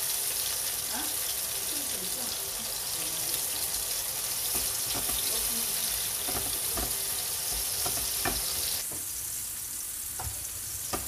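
Diced tomatoes sizzling in hot oil in a nonstick frying pan, with a silicone spatula stirring and scraping through them in short strokes. The sizzle drops off sharply about nine seconds in and carries on more quietly.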